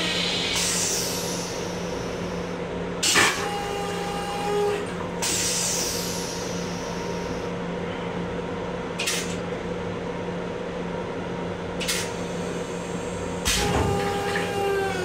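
Steady running hum of a Long Island Rail Road M7 railcar, heard from inside its small restroom. It is broken by a few sharp knocks and rattles and two short hisses.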